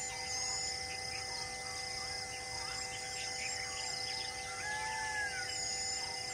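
Many wild birds chirping and whistling, with one longer falling call about five seconds in, over a few steady droning tones.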